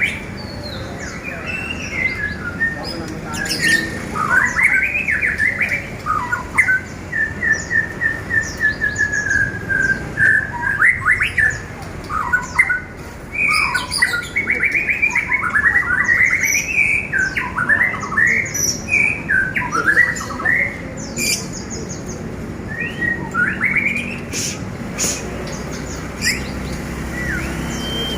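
A caged pastol songbird singing continuously, a varied stream of warbled and whistled phrases, with a run of quick repeated notes falling slightly in pitch about seven seconds in.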